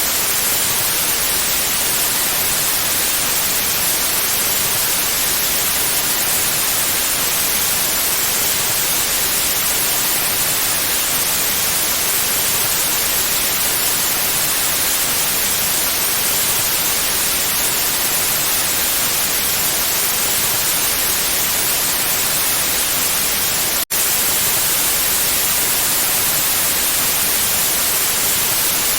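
Steady white noise, an even hiss across the whole range and strongest in the highs, broken once by a split-second dropout about 24 seconds in, likely where the recording loops.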